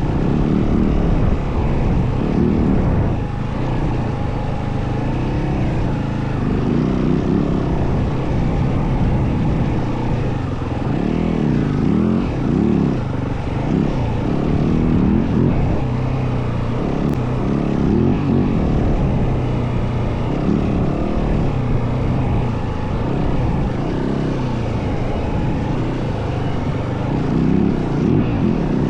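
Yamaha WR450F single-cylinder four-stroke dirt bike engine running under way, its pitch rising and falling continually with the throttle.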